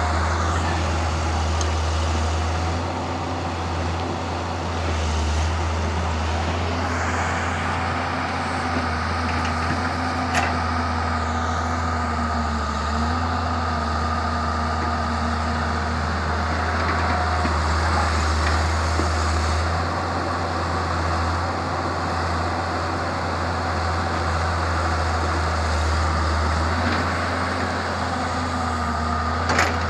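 Heavy diesel engine running steadily as an excavator digs and loads sand, a low hum that swells and eases a little under load. A sharp knock comes about ten seconds in and another near the end.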